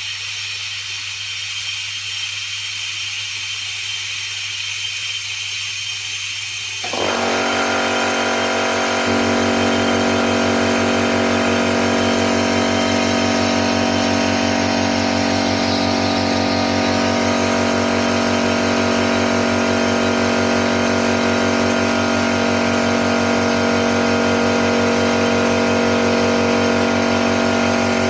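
Electric motor of an air bearing testbed running with a steady whine of several tones. Over a steady hiss and low hum, the motor switches on about seven seconds in and steps up again about two seconds later.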